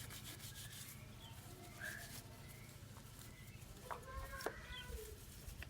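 Chickens clucking faintly in the background with short pitched calls, along with a few light clicks about four seconds in.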